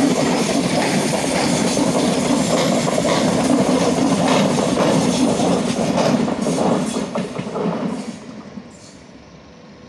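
Frecciarossa high-speed train passing close along the platform: a steady rumble of wheels on rail with clacks over the rail joints. It fades from about eight seconds in as the tail end moves away.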